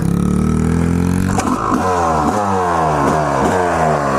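Dirt bike engine revving up as it pulls away, then, from about a second and a half in, a quick series of repeated rising revs, two or three a second, as the throttle is worked.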